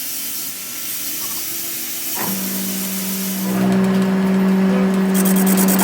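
A workshop machine's motor switches on and runs with a steady hum that grows louder. Rapid, even ticking joins in near the end.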